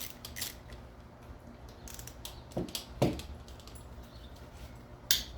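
Hand tools working on an engine's Allen-head bolts: scattered metal clicks and knocks, with two duller knocks about two and a half and three seconds in and a sharp click near the end.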